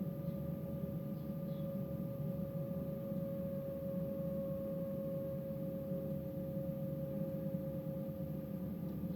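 Train running: a steady low rumble with a steady whining tone over it.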